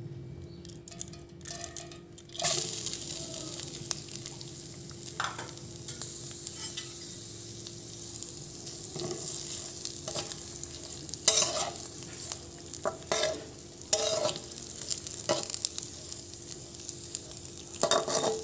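Mung dal tipped into a little hot oil in a kadai starts to sizzle suddenly about two seconds in, then fries with a steady sizzle. A spatula scrapes and stirs the lentils against the pan every second or two.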